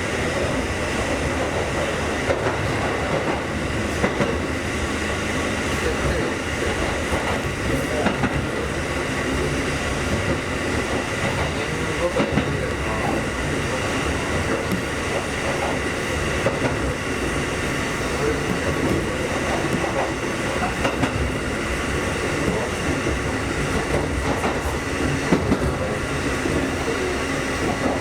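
Kotoden Nagao Line electric train running between stations, heard from on board: a steady rumble and hiss with wheels clicking over rail joints every few seconds.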